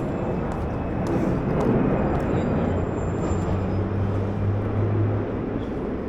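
Steady vehicle rumble, with a low hum between about two and five seconds in.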